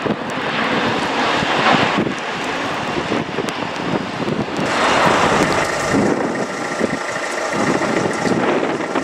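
Gusty wind buffeting the microphone over the steady noise of a jet airliner's engines, with thin steady engine tones coming in about halfway through.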